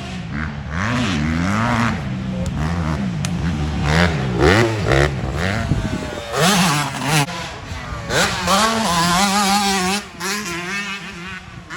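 Several motocross bikes' engines revving hard, their pitch rising and falling as the riders open and close the throttle, with the loudest stretch in the middle as bikes come close.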